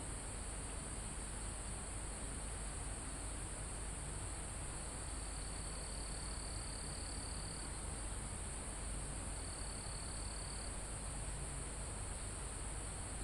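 Forest insect chorus of crickets and other insects: a constant high-pitched buzzing, joined twice by a second, lower trill lasting about two seconds and then about a second, over a steady even hiss.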